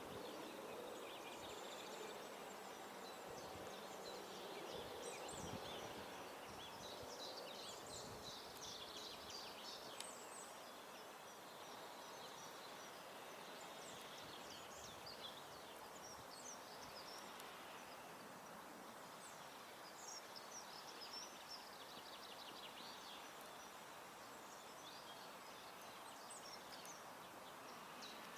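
Garden songbirds chirping and calling in many short, high notes over a faint, steady outdoor hiss, busiest in the first ten seconds.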